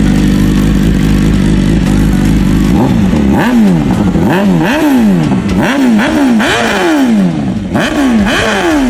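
Motorcycle engine and exhaust idling steadily, then revved in quick repeated blips from about three seconds in, each rev rising and falling in pitch, about two a second.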